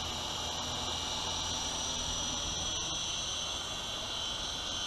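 Small electric coaxial RC helicopter (UDI U12A) in flight, giving a steady low hum, over a steady high chirring of insects.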